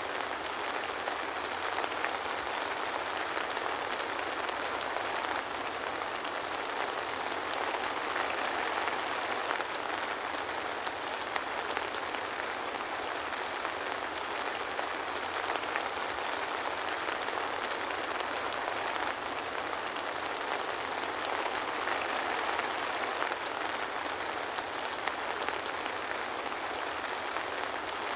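Steady soft rain falling on a surface, a dense even patter with fine crackle of drops and no thunder.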